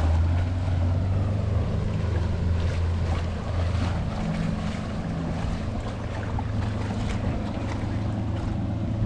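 Motorboat engine running with a steady low hum, under wind noise on the microphone and rushing water.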